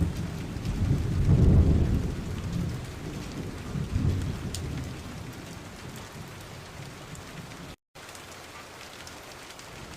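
Steady rain with low rolls of thunder, strongest in the first two seconds and again about four seconds in. The sound cuts out for an instant near the end, then the rain goes on more quietly without thunder.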